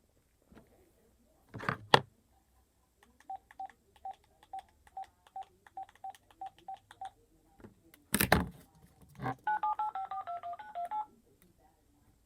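Phone keypad tones: a run of short identical beeps at about three a second, then a phone number dialed in quick touch-tone beeps of changing pitch near the end. Two loud knocks break in, one about two seconds in and one just after the middle.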